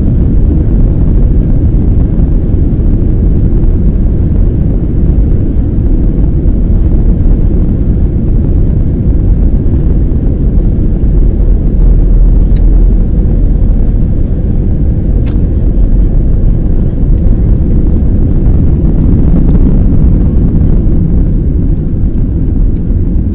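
Twin jet engines of a Boeing 767-300 at takeoff thrust: a loud, steady low rumble, with a few faint ticks.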